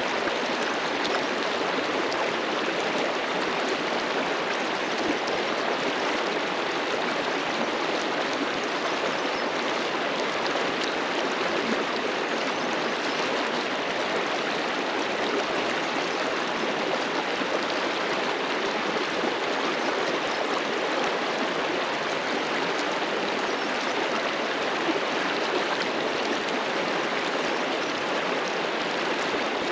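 River water rushing and splashing over rocks, a steady, full rush with no change.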